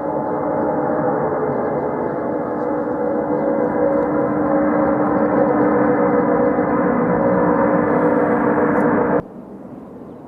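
Aircraft engines running with a loud, steady droning hum of several held tones, growing slightly louder, then cut off abruptly about nine seconds in.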